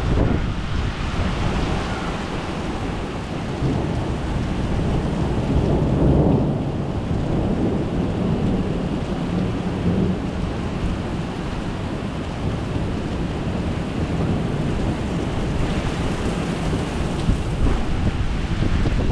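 Thunder rumbling over steady heavy rain, the rumble swelling about six seconds in.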